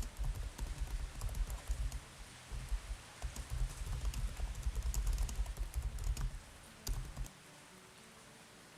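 Rain, with irregular low thumps until about seven seconds in, then only a faint patter of scattered drops.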